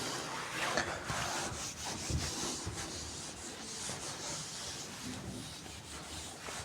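Handwriting: a steady scratchy rubbing of a pen or marker moving across the writing surface in short irregular strokes.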